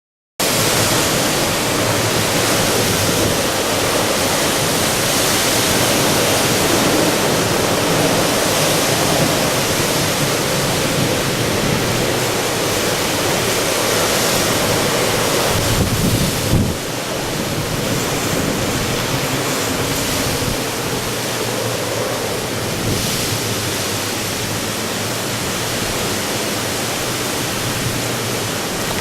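Typhoon winds blowing, a steady heavy rush of noise that drops a little in level a bit over halfway through.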